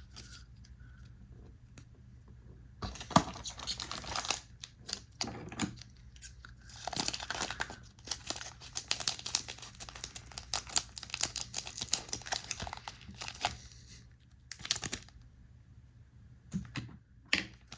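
Foil trading card booster pack wrapper being torn open and crinkled, with cards handled. Irregular crackling with a sharp click about three seconds in, a long dense stretch of crinkling in the middle, and short bursts near the end.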